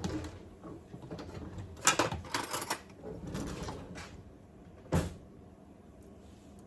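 Kitchen handling clatter: a quick run of knocks and scrapes about two seconds in, then a single sharp knock about five seconds in.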